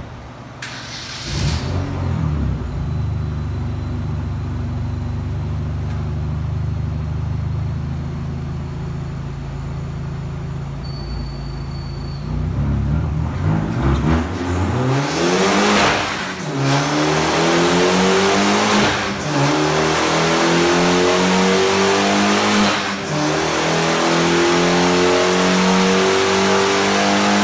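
Hyundai Genesis Coupe 2.0T's turbocharged four-cylinder on a chassis dyno. It comes up about a second in and runs at a steady low idle. From about halfway it makes a full-throttle pull, the pitch climbing and dropping back at three gearshifts as it runs up through first, second, third and fourth gear.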